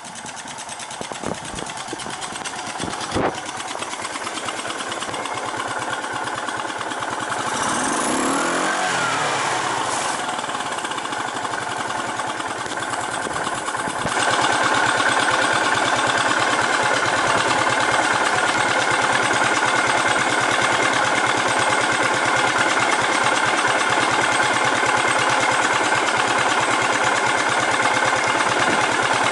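Yamaha SR400 air-cooled single-cylinder four-stroke engine running just after starting, with an even rapid thump at idle. A brief blip of the throttle rises and falls around 8 seconds in. From about halfway through it idles steadily and louder.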